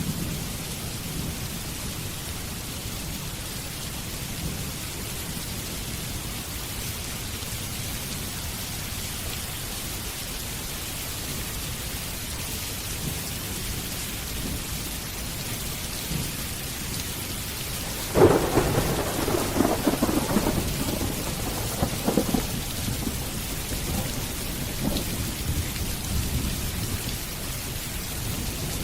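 Steady rain falling, with a clap of thunder that breaks sharply about two-thirds of the way through and rumbles on for several seconds before fading back under the rain.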